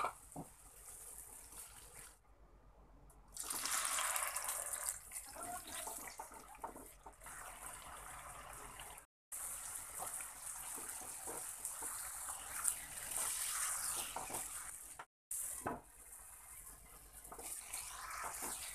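Food sizzling as it fries in a non-stick pan, a steady hiss that breaks off sharply twice where clips are joined.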